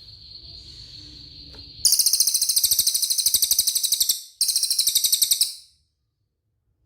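A cililin bird calling: a thin, steady high whistle held for about two seconds, then a loud, rapid, high trill in two bursts with a short break between them.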